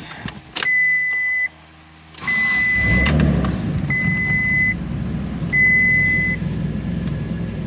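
Dodge Stealth's V6 engine cranked and catching about two seconds in, then running steadily, while the car's dashboard warning chime beeps four times in an even rhythm.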